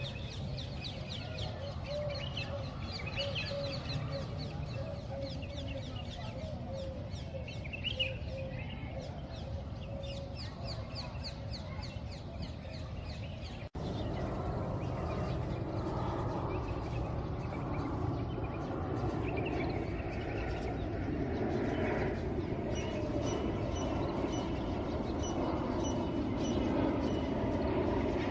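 Outdoor birdsong: rapid repeated high chirps and lower wavering calls over a steady low background rumble. About halfway through the sound changes abruptly to a louder, even background noise with fainter high bird calls.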